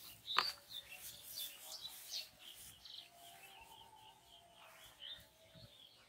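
Birds chirping outdoors, a run of short high chirps about four a second in the second half, with one sharp click about half a second in.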